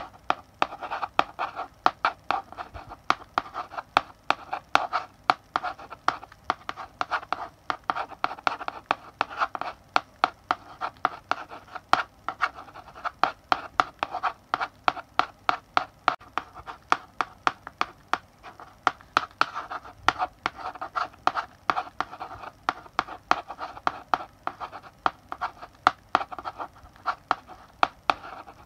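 Chalk writing on a blackboard: a continuous run of short scratching strokes and sharp taps of the chalk against the board, several a second.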